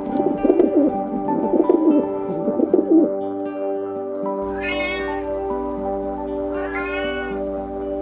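Pigeons cooing in low, wavering calls for about the first three seconds. Then a cat meows twice, each meow under a second long and rising then falling in pitch, over soft sustained background music.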